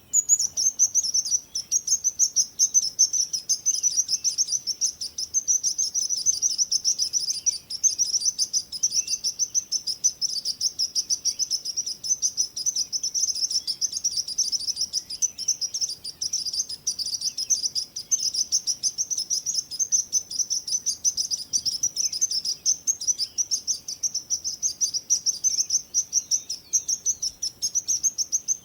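Small birds chirping: a dense, unbroken stream of rapid high-pitched chirps, many a second, at a steady level.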